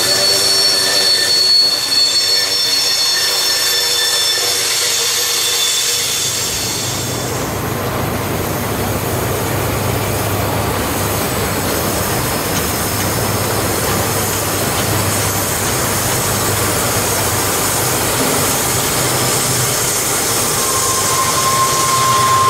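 Freight cars of a BNSF train rolling past on a curve. For the first six seconds or so, several high steady wheel squeals ring over the rumble, then they give way to a steady rumbling clatter of the passing cars. A single squeal tone returns near the end.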